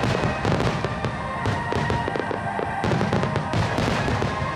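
Fireworks bursting and crackling in rapid succession, with music playing.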